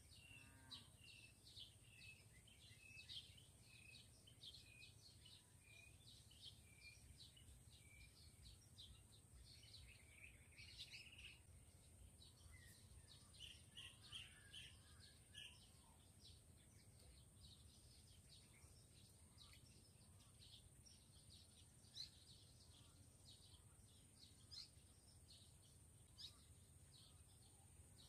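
Faint bird calls, many short chirps, with a run of evenly spaced short notes for the first eight seconds, over a low steady background rumble.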